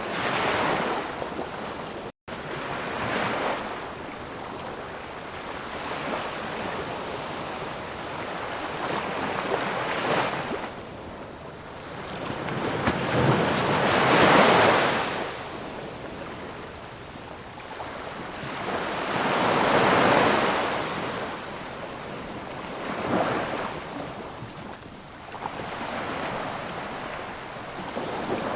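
Ocean waves breaking and washing up the shore, swelling and fading in surges every few seconds, the loudest about halfway through. A split-second gap in the audio about two seconds in.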